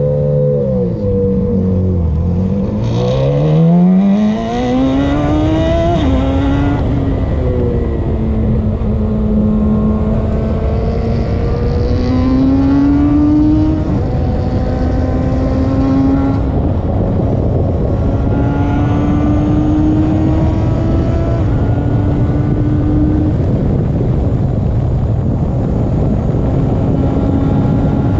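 Radical race car's engine accelerating hard, its pitch climbing through the gears with several sudden drops at the upshifts, over a steady rush of noise.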